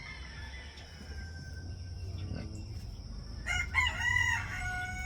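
Roosters crowing: a faint, drawn-out crow near the start, then a loud crow about three and a half seconds in, its long held final note carrying on past the end.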